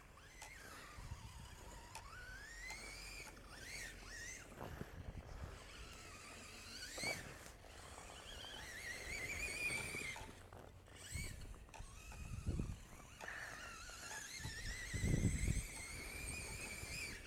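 Electric motor of a 2WD Traxxas Rustler RC truck whining, its pitch rising and falling over and over as the truck speeds up and slows. Low thumps come in the second half, the loudest near the end.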